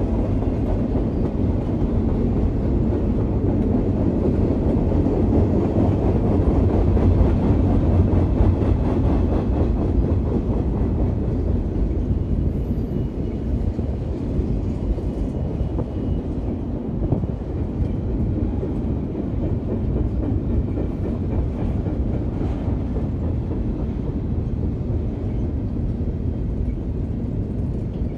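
BNSF double-stack container train's cars rolling past: a steady rumble of steel wheels on the rails, swelling a little about seven seconds in.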